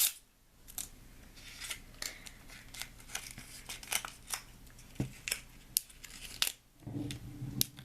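Thin plastic wrapping being torn and peeled off the cap of a marble-stoppered soda bottle: an irregular run of sharp crinkles and crackles.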